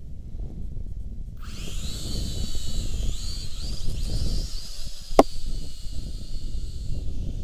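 Syma X5C-1 quadcopter's small motors and propellers whining high, starting about a second and a half in, its pitch wavering, and cutting off near the end, over heavy wind buffeting the microphone. A single sharp click about five seconds in.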